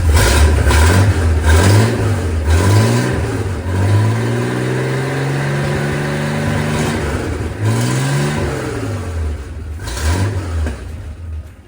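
Freshly overhauled Chris-Craft Model W six-cylinder marine engine running and being revved. There are several quick blips, then a longer rev held for a few seconds in the middle, then more blips before it drops back near the end.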